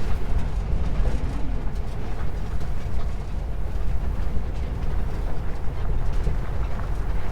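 1950s split-window VW bus with its air-cooled flat-four engine driving slowly down a washed-out dirt track, a steady low rumble of engine and rough ground.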